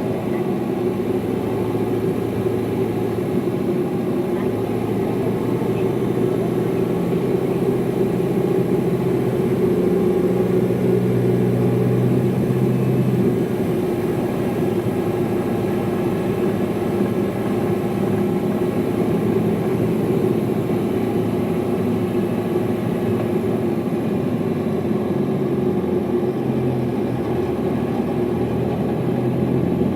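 Hino Liesse small city bus's diesel engine running under way, heard from inside the cabin, with steady road and engine noise whose engine note shifts in pitch partway through and again near the end as the load changes on the climb.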